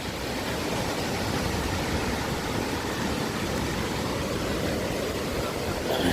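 Steady rush of severe thunderstorm wind through full-grown trees.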